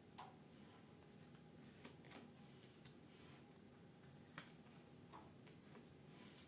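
Near silence with a few faint soft ticks and rustles of tarot cards being handled.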